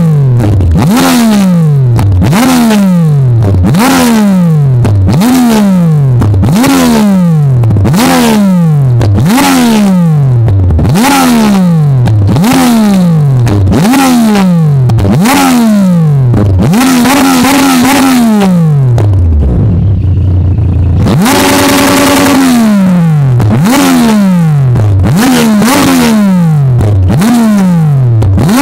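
Stationary motorcycle engine being revved in a rapid series of throttle blips, about one a second, each rev jumping up and falling back. Near the middle the revs are held high twice, the second time for about a second and a half, before dropping. Very loud throughout.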